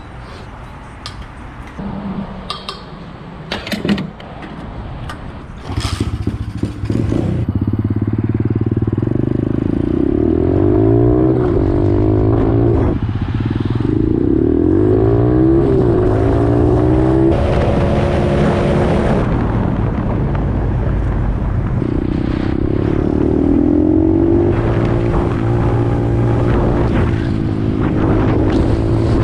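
Pit bike engine riding under load: the first few seconds hold scattered clicks and clatter, then the engine comes up loud about six seconds in. Its pitch climbs and drops back again and again as the bike accelerates and shifts through the gears.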